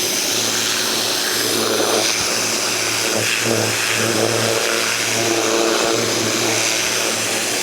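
Ryobi 2000 PSI electric pressure washer running, its motor humming steadily under the loud hiss of the high-pressure water jet blasting a concrete surface.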